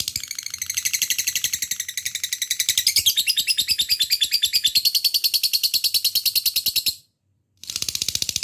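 Lovebird giving its long 'ngekek' chatter: a fast, unbroken stream of high-pitched chirps, about ten a second. It cuts out completely for about half a second near the end, then starts again.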